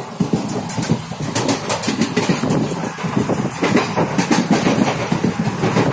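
Passenger train running at speed, its wheels clattering rapidly over the rails with a steady rushing noise underneath.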